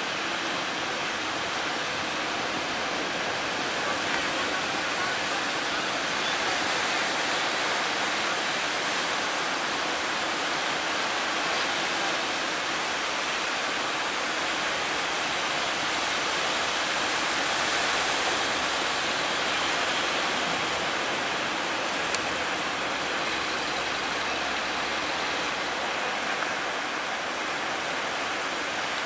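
Steady rushing noise of large sea waves breaking and surging, swelling a little about two-thirds of the way through, with a single sharp click near the end.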